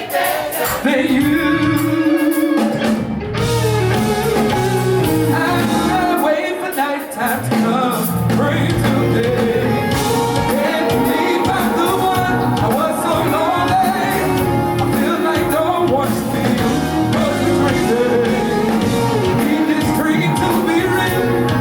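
Live band playing a soul/R&B song, with a singer's voice over the band.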